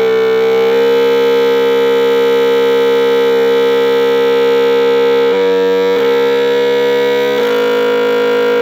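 Homemade electronic motorcycle sound generator, built from oscillators, played through a small amplifier in a wooden box. It holds a loud, steady buzzing engine-like tone, then changes character briefly about five seconds in before settling back.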